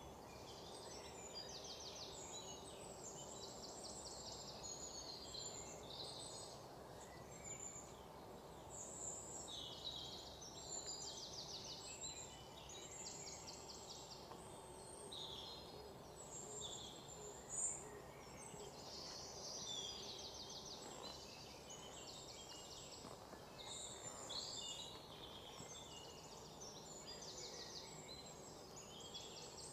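Birds chirping and trilling, many short high calls repeated throughout, over a steady low background hiss of open-air ambience. A single sharp knock about two-thirds of the way through.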